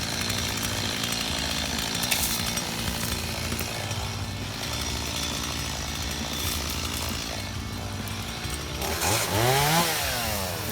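Stihl two-stroke chainsaw idling steadily, then revved up sharply about nine seconds in and dropping back to idle.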